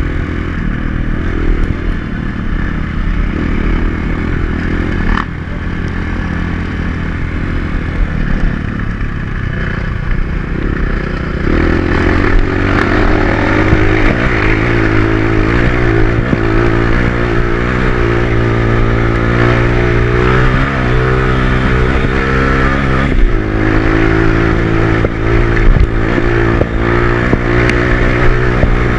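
Dirt bike engine running while being ridden, its pitch rising and falling with the throttle through the second half, with clattering and scraping over rough ground.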